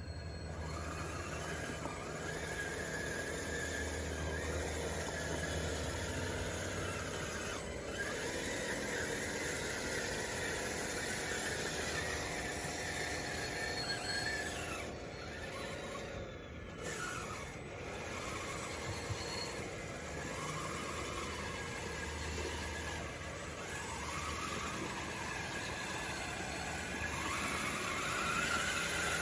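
DXR2 RC bulldozer at work pushing dirt: its drive whines over a steady low hum, the whine rising and falling in pitch as it moves. It grows louder near the end.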